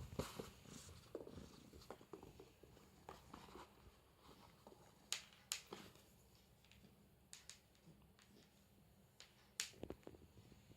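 Faint rustling and scattered sharp clicks of a kitten at play with a cat teaser toy, busiest in the first couple of seconds, then a few single clicks further on.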